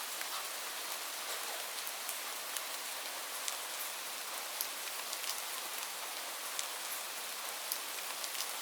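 Steady rainfall hissing, with individual drops ticking sharply on a surface now and then.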